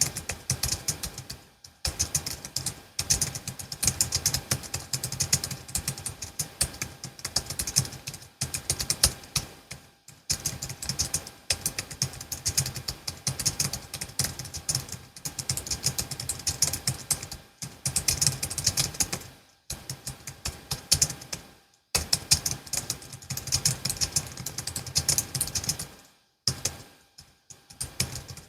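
Typing on a Logitech MX Keys S low-profile keyboard: fast, continuous runs of light key clicks, broken by short pauses every few seconds.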